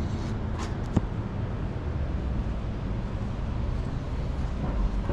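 Street ambience: a steady low rumble, with a single sharp click about a second in.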